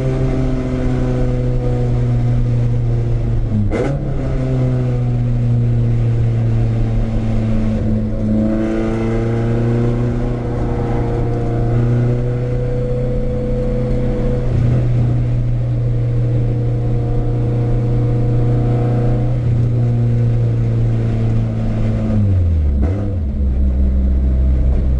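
Renault Clio 172's 2.0-litre four-cylinder engine driven hard on track, its note rising and falling through the gears, with a quick dip about four seconds in. Near the end the engine note drops away to a low, steady drone.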